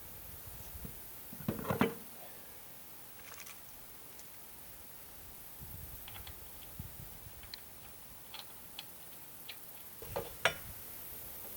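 Scattered clicks and knocks of small hard objects being handled, with a louder clatter about two seconds in and a sharp knock near the end.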